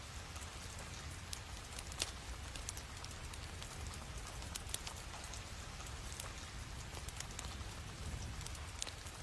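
Scattered light ticks and taps of paper and stickers being handled for journaling, irregular and a few each second, over a low steady hum.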